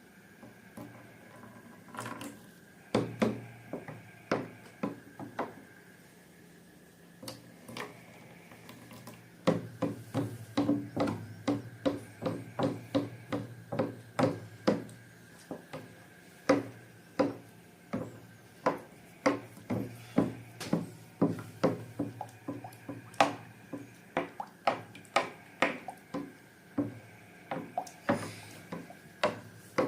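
Slime being mixed in a bowl: a steady run of sharp knocks and clicks, about two a second, starting about a third of the way in after a few scattered ones, over a faint steady hum.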